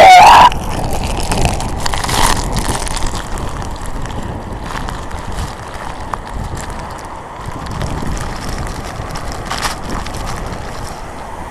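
Typhoon-force wind gusting hard against the phone's microphone, a rough, buffeting rush that swells and eases. A loud rising tone cuts off about half a second in.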